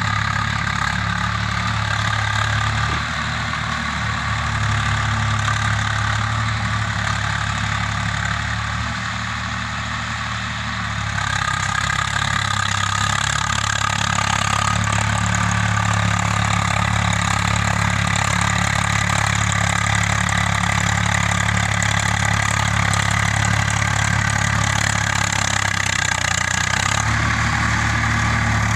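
Swaraj 855 tractor's three-cylinder diesel engine running steadily while tilling a field. It gets louder and brighter about eleven seconds in.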